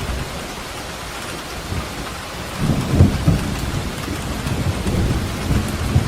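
Steady rain falling, with a deep roll of thunder that swells about two and a half seconds in and rumbles on.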